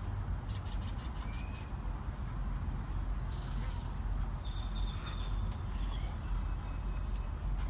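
Birds singing outside: a quick run of high chirps, then several long, thin whistled notes, one opening with a falling slur. A steady low rumble underlies them.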